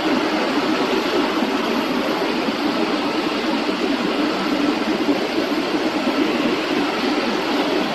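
Jet engines of a Boeing 767 freighter, a loud steady rushing noise with a faint whine, holding level without rising or falling.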